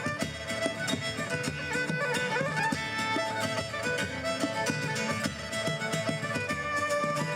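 Live Celtic folk band playing a lively tune: a melody line held over a quick, steady rhythm.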